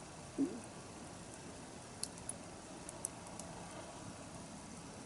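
Wood bonfire burning with a steady low rush and a few sharp crackles and pops about two and three seconds in, and a soft low thump near the start.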